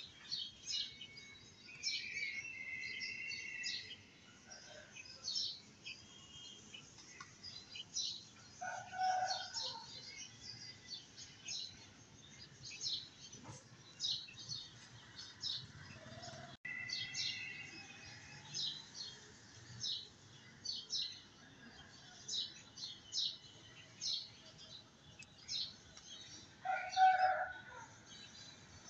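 Small birds chirping in short, scattered high chirps, with a few longer whistled notes; one louder, lower call near the end.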